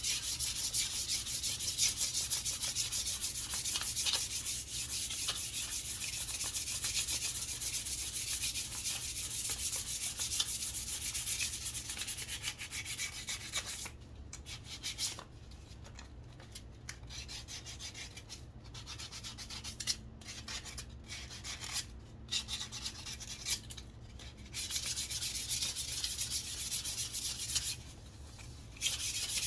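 Sandpaper rubbing over a wooden walking stick in quick back-and-forth strokes, a steady scratchy hiss. About halfway through the strokes turn softer and stop and start for several seconds, then the full sanding comes back, with a short pause near the end.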